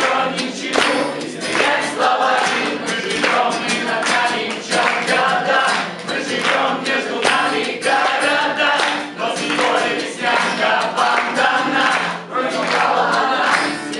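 A group of voices singing a song together, with a steady beat.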